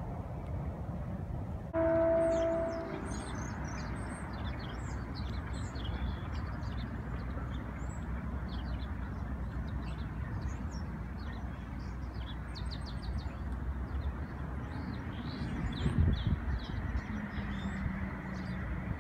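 Small birds chirping again and again over a steady low outdoor rumble. About two seconds in, a loud steady tone sounds for about a second, and a low steady hum comes in near the end.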